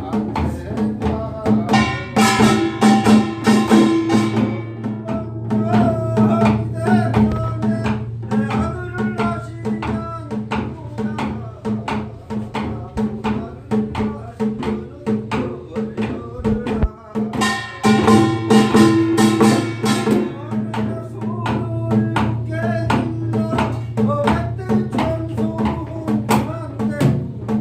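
Korean pungmul folk percussion music: drums and gongs play a dense, steady rhythm, with two louder swells, one about two seconds in and one about eighteen seconds in.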